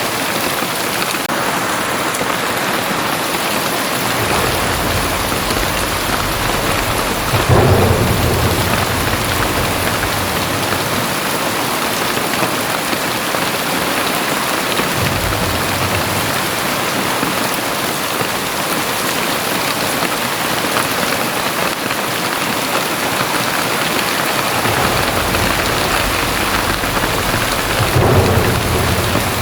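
Heavy rain pouring steadily in a dense, even hiss. Deep low rumbles come and go beneath it and swell loudest about seven seconds in and again near the end.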